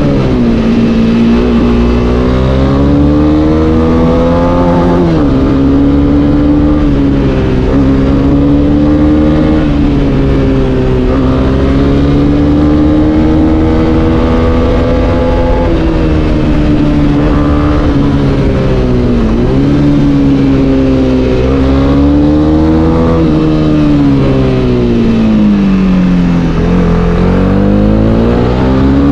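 Honda CB300R's single-cylinder engine under way, its pitch climbing under throttle and dropping sharply at each of several gear changes, then climbing again.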